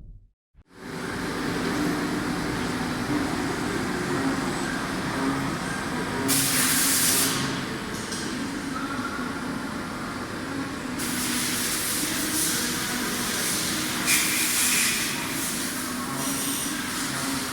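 Haas ST-30 CNC lathe running: a steady machine hum, with loud hissing stretches about six seconds in and again from about eleven to sixteen seconds.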